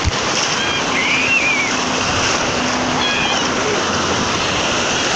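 Steady rush of sea surf washing in. A few faint, high-pitched voices can be heard in the background.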